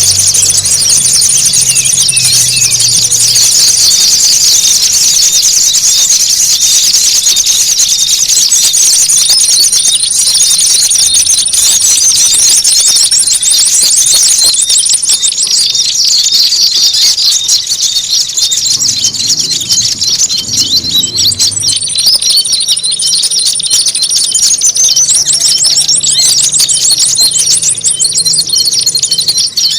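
Bird-lure recording of small songbirds calling in a noisy, dense chorus: fast high trills and chatter with no break, with a long, steady, very high whistle that comes in and drops out several times. It is a lure sound meant to draw small birds in.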